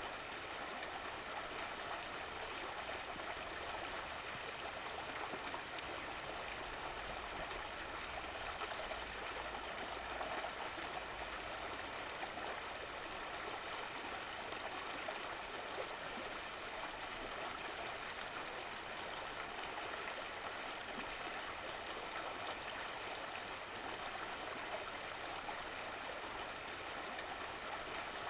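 Running water of a stream flowing and trickling in a steady, even rush.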